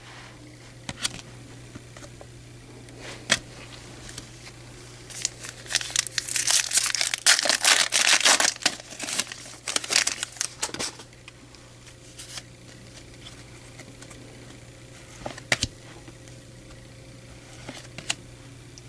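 Foil wrapper of a Topps baseball card pack being torn open and crinkled, a dense burst of crinkling lasting several seconds in the middle, with scattered light clicks of cards being handled before and after. A faint steady low hum runs underneath.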